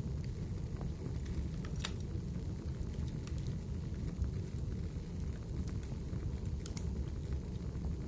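Steady rainfall with a low, even rumble, over which a wood fire gives a few sharp crackles and pops, the clearest about two seconds in and again near the end.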